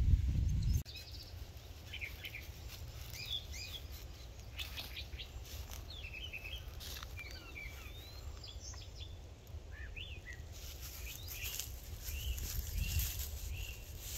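Several birds chirping and whistling in the trees, a varied mix of short calls and pitch glides. In the first second a low rumble on the microphone cuts off abruptly.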